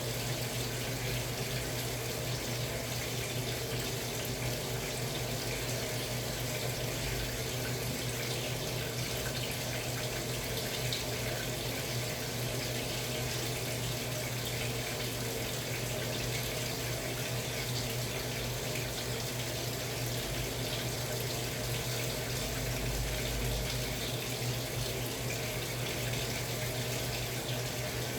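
Samsung Wobble 14 kg top-loading washing machine running with a steady rush of water and an even hum underneath.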